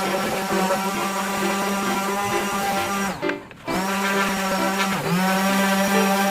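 Electric power tool motor running at a steady high hum, cutting out for about half a second midway and dipping briefly in pitch near the end as it takes load.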